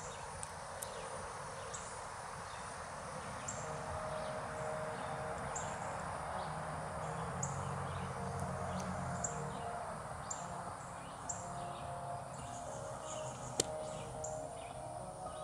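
Outdoor ambience: small birds chirping, short high chirps repeating about once a second over a steady background noise.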